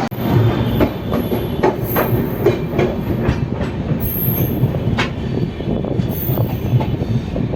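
Passenger train rolling on the rails: a steady rumble with irregular wheel clacks over rail joints and a high wheel squeal that comes and goes.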